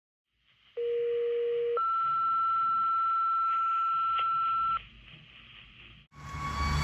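Two-tone sequential dispatch alert over a fire radio or pager: a low steady tone of about a second, then a higher tone held for about three seconds, the tone alert that calls a fire company out. About six seconds in, a fire engine's engine and siren sound starts suddenly and loudly.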